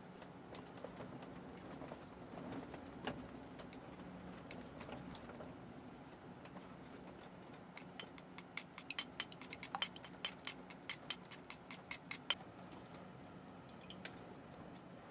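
A quick run of light, sharp taps, about five a second for about four seconds, with a few scattered clicks before it, over a steady low hum.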